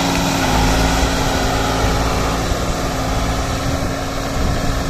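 New Holland tractor's diesel engine running steadily at a constant speed.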